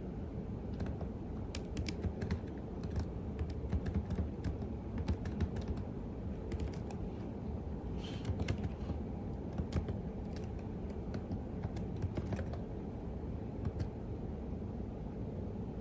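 Typing on a computer keyboard: irregular runs of key clicks that stop a few seconds before the end, over a steady low hum.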